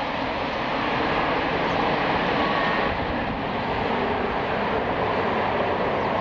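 Jet engines of a Boeing 777-300 airliner, a steady, loud rushing noise with no breaks.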